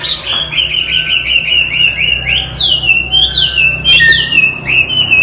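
Chinese hwamei singing loudly: a fast run of short repeated high notes, then a series of louder notes that each sweep quickly downward.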